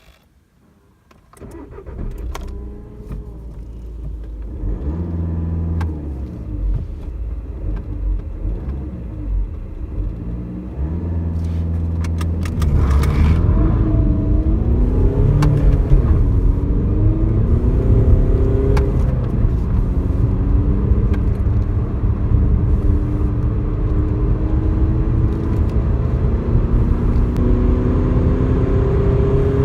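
Skoda Superb 2.0 TDI four-cylinder common-rail diesel engine starting about a second in, then running at varying low revs. From about 12 seconds in it gets louder under hard acceleration, its pitch climbing steadily toward the end.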